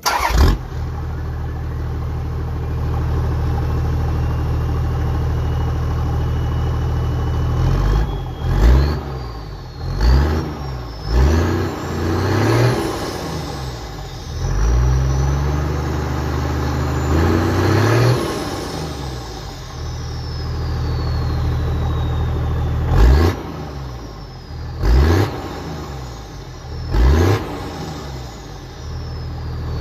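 Toyota Land Cruiser HDJ81's 4.2-litre turbo-diesel straight-six, heard through a 3-inch stainless side-exit exhaust, starting up and idling, then revved in several quick blips and one longer rev. A high turbo whistle climbs and falls with the revs.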